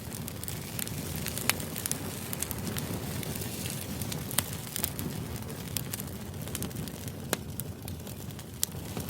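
Crackling fire ambience: a steady low rush with irregular sharp pops and crackles, the loudest about a second and a half in, about four and a half seconds in, and about seven seconds in.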